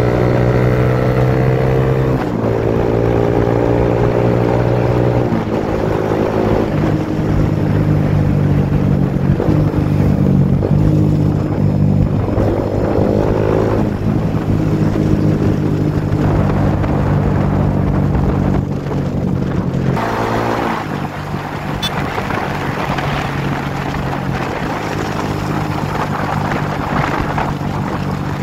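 Suzuki GSX-S150's single-cylinder engine pulling through the gears, its pitch climbing and dropping back with each gear change several times. About two-thirds of the way in it settles lower and steadier.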